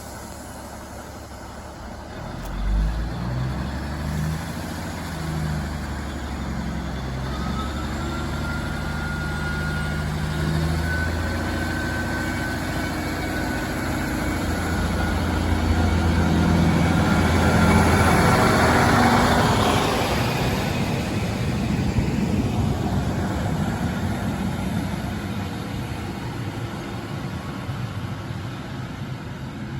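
Diesel train running on the line, its engine throbbing low. A thin high whine rises slightly partway through. The train gets louder to a peak about two-thirds of the way in, then fades as it moves on.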